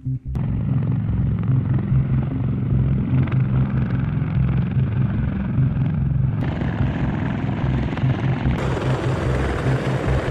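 Aircraft engine noise: a steady, loud engine sound with a fast low throb, changing abruptly twice where clips are spliced together.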